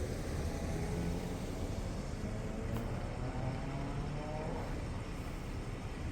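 A motor vehicle engine running steadily with a low rumble and a faint hum that rises slowly in pitch through the middle.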